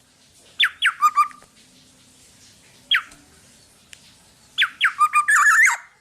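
Black-naped oriole calling: quick clusters of sharp, downward-sliding whistled notes about half a second in, a single one about three seconds in, and a longer run near the end that breaks into a rough, buzzy burst.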